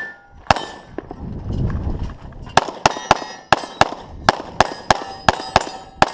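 Pistol shots from a 9mm Glock 34 with a ported compensator barrel, fired at steel plates, with the plates ringing briefly when hit. There is one shot about half a second in, then after a pause a rapid string of about a dozen shots at roughly three to four a second.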